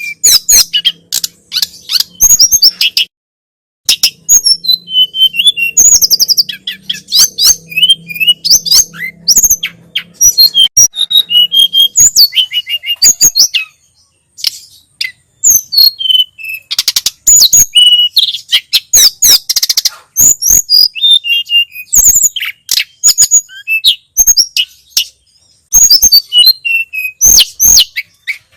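Tledekan gunung songbird singing loudly: rapid high-pitched whistled chirps and sweeping notes in quick, busy phrases, with brief pauses about three seconds in and again about halfway through.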